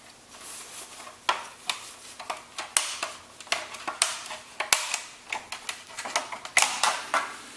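Irregular plastic clicks and rustling from handling a 14-inch LED ring light, its clip-on colour filter cover being worked and unclipped.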